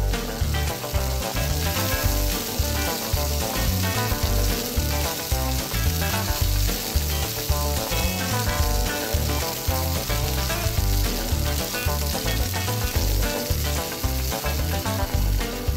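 A sizzling deep-frying sound plays as toy french fries go into a toy deep fryer's basket. The sizzle is a steady high hiss that starts at once and stops near the end, over background music with a steady bass beat.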